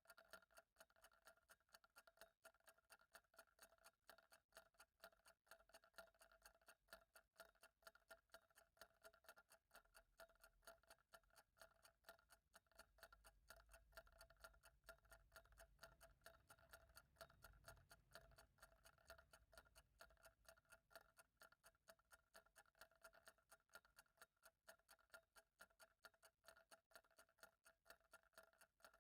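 Faint, steady ticking of a clock, evenly spaced ticks throughout.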